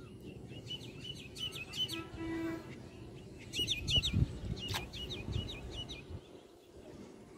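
A small bird chirping in three quick runs of high, repeated, hooked notes. Low thumps come in the middle and are loudest about four seconds in.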